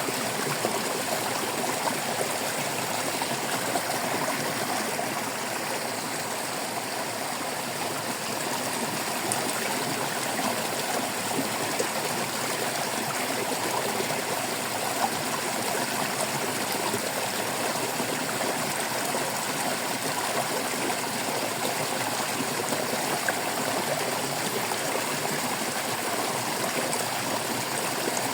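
Shallow stream water babbling and trickling steadily over stones, a continuous splashing gurgle.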